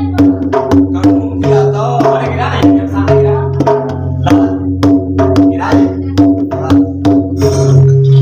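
Devotional folk music: a hand drum beating a steady rhythm of about three strokes a second, with jhaal cymbals, over sustained held notes that shift pitch every second or so.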